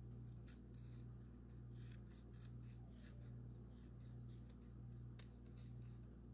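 Faint, scattered snips of excess paper being trimmed from a cardboard craft piece, over a steady low hum.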